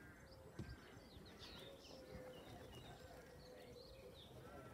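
Faint outdoor ambience: small birds chirping and twittering in short high notes, with a faint steady hum underneath.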